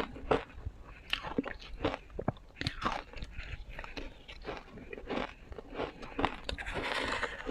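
Ice being bitten and crunched between the teeth, close to the microphone, in a run of sharp, irregular cracks with chewing between them. The crunching grows denser near the end.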